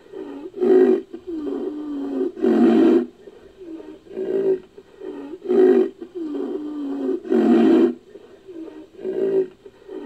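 Made-up monster sound effect for a giant rhinoceros-beetle creature, built from a woolly rhino roar sound effect. A looped sequence of deep calls: a short grunt, a falling moan, then a loud roar, repeating about every five seconds.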